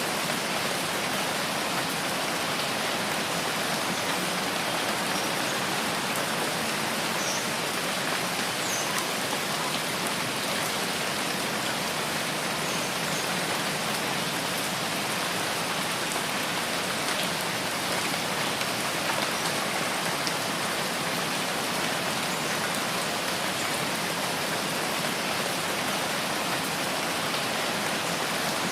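Steady rain: an even, unbroken hiss of many drops with a few faint higher ticks.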